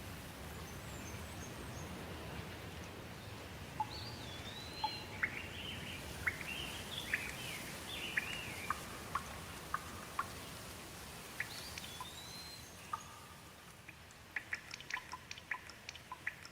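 Steady rain with a bird calling repeatedly over it, short whistled notes sliding up and down, from about four seconds in. Near the end the rain thins and gives way to separate sharp drips.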